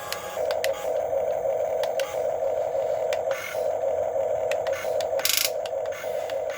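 Small electric gear motors of a Huina 1550 RC excavator whining in short start-stop spells as the boom and bucket are worked, with scattered clicks and scrapes.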